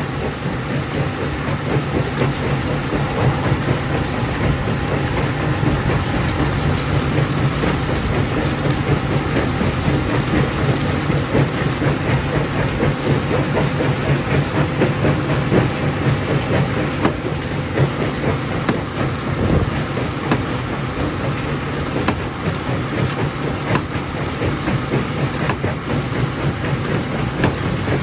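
Primary jaw crusher running and crushing rock: a steady low machine hum under continuous crunching and rattling of stone.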